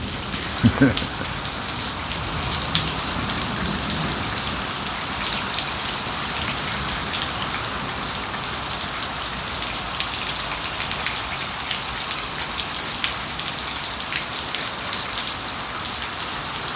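Heavy rain falling steadily: a dense, even hiss of drops with many individual drop ticks. A brief low sound cuts in about a second in.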